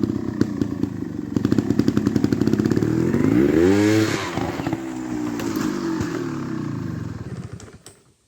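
Beta EVO trials motorcycle engine running. It is revved up to a peak about four seconds in, then eases back, and the sound dies away near the end.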